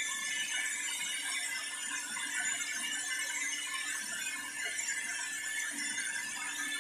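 Nikai hair dryer running steadily: a constant high whine over a hiss of blown air.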